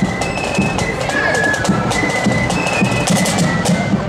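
Marching flute band playing a tune in unison over snare and bass drums, the flutes holding high notes that change every half second or so against a fast run of drum strokes.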